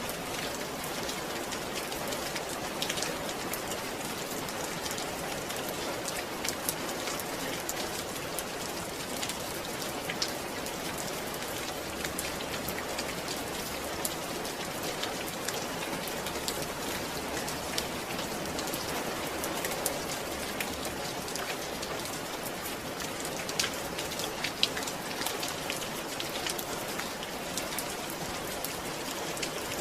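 Steady rain falling, with many separate drops pattering on a surface.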